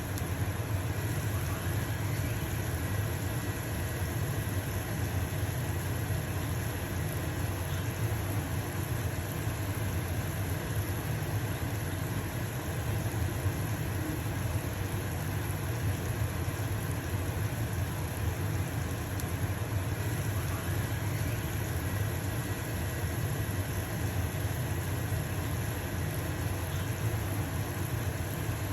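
Stove-top range hood fan running with a steady low hum, over the sizzle of a pancake frying in a pan.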